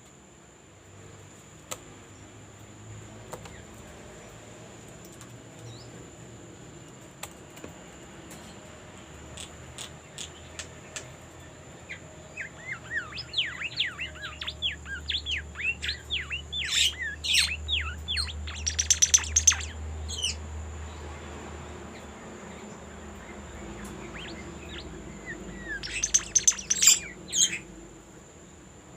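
Small songbird (a bimoli) singing lively, rapid runs of quick high chirps and twitters in two bouts, the first beginning about twelve seconds in and the second near the end, over a thin steady high-pitched whine.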